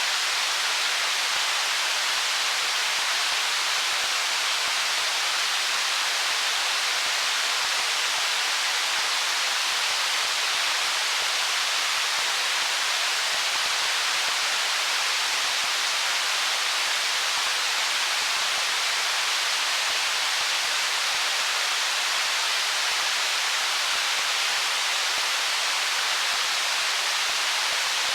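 Stream water rushing over stones as a steady, even hiss, with no single splash or gurgle standing out.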